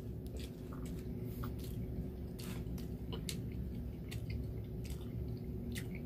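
A person chewing food with the mouth closed: soft, wet mouth clicks and squishes, scattered irregularly, over a steady low room hum.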